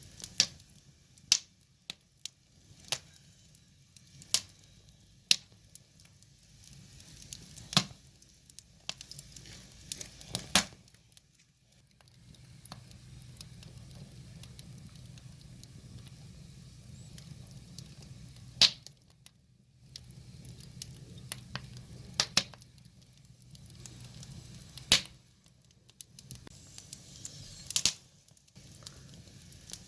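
Wood fire burning, crackling with sharp, irregular pops of the firewood every second or two over a faint hiss. Through the middle of the stretch there is a low, steady rush of flame.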